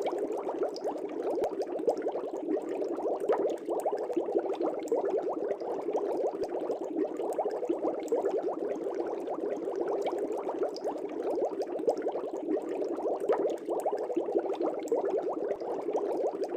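Aquarium air bubbles bubbling steadily in the water: a dense, continuous stream of small pops.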